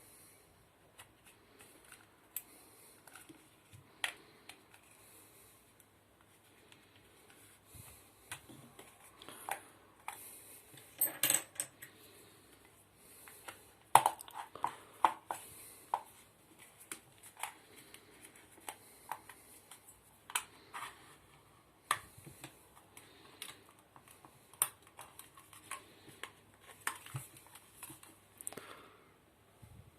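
Irregular clicks, taps and light clatter of small hard parts and tools being handled while a blender is taken apart, with a short flurry of knocks about eleven seconds in and again around fourteen to sixteen seconds.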